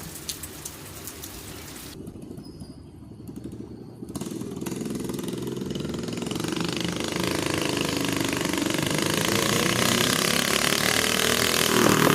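Rain pattering briefly, then after a cut a minibike engine running, its pitch shifting as it revs and growing steadily louder toward the end.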